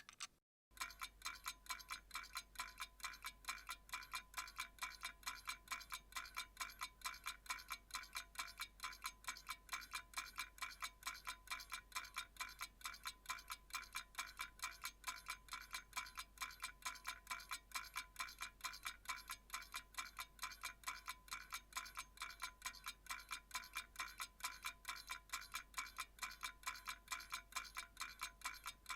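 Clock ticking quickly and evenly, about three ticks a second, each tick with a bright metallic ring. The ticking starts after a brief silent gap about half a second in.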